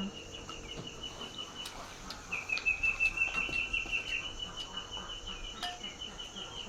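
A high-pitched, rapidly pulsing trill from a small calling animal. It breaks off briefly about two seconds in, then carries on.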